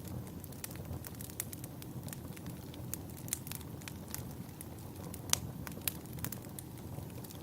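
Wood fire burning in a fireplace: a low steady rumble of flames with irregular sharp crackles and pops, the loudest pop about five seconds in.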